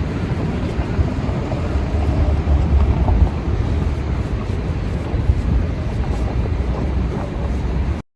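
Wind buffeting the microphone outdoors, a steady low rumble that cuts off abruptly near the end.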